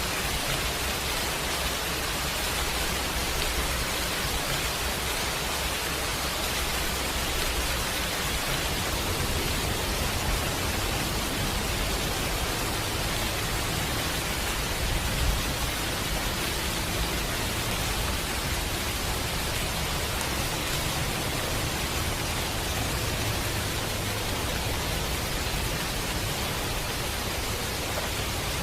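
Steady rain falling with an even hiss, one brief louder pop about halfway through.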